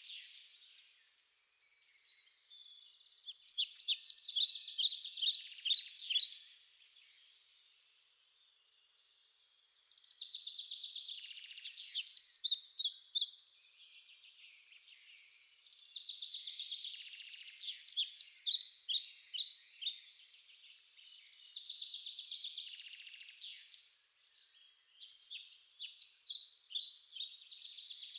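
Birds chirping: repeated phrases of rapid chirps and trills, each a few seconds long, with short lulls between them.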